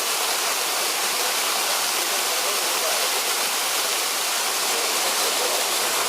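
Kozyrek waterfall on the Kobalar-Su river: a steady, unbroken rush of falling water.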